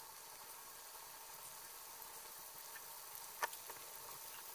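Meatballs (köfte) frying in shallow oil in a pan: a steady, fairly quiet sizzle with small crackles, and one sharp click about three and a half seconds in.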